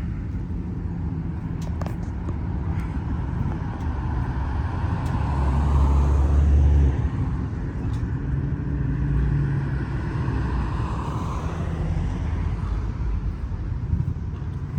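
Car engines running as cars move slowly through a car meet. One grows louder from about four seconds in and drops away suddenly near seven seconds.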